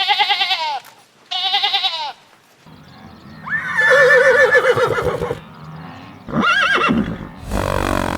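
Two short, quavering goat bleats, then a longer, lower wavering animal call over a low hum, and near the end a short call and a burst of noise.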